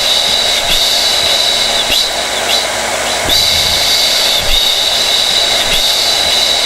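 Hair dryer running steadily: an even rush of blown air with a high whine from the fan motor.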